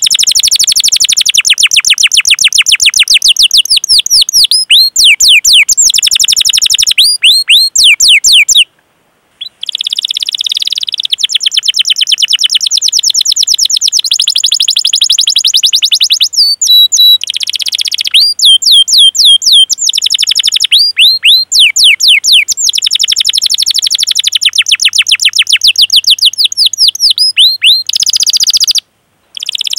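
Domestic canary singing long rolling trills: fast runs of repeated sweeping chirps ('cuit cuit'), phrase after phrase, with brief breaks about nine seconds in and near the end.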